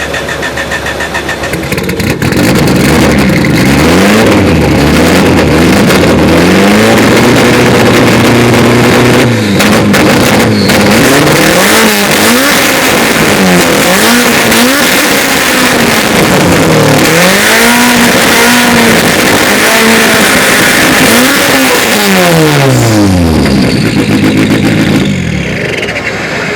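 Engine of a 400-horsepower race-built classic Mini running loud: it steps up about two seconds in, then is revved again and again, the revs rising and falling about once every two seconds, before settling back to idle near the end.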